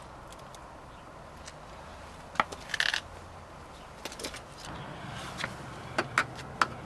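A few light metallic clicks and rattles from loose screws and a hand tool being handled, with a short jingling cluster about two and a half seconds in and single clicks later.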